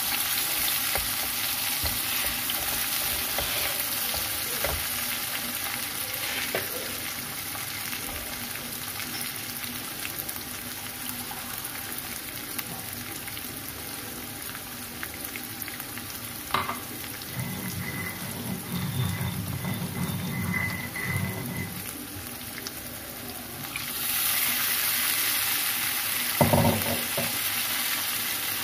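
Ground spice paste with tomato and green chili sizzling steadily in oil in a frying pan, sautéed until fragrant. The sizzle grows louder near the end, and there are a couple of sharp knocks.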